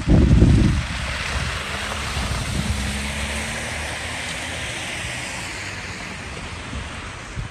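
A vehicle driving past on a snowy street, its tyre hiss swelling and then slowly fading, with a faint engine hum in the middle. Wind buffets the microphone with a low rumble at the start.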